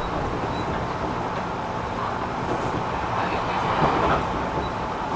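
Interior running noise of a JR 205-series electric commuter train between stations: a steady rumble of wheels on rail with a faint steady hum, swelling briefly with one louder bump a little under four seconds in.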